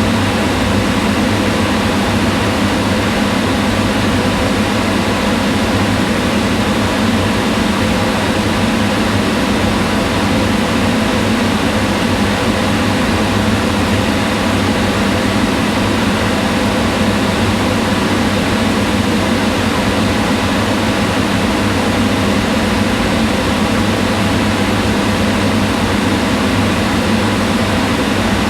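Kitchen range hood fan running steadily: an even whirring hum, heaviest in the low range, with faint steady tones above it and no change in level.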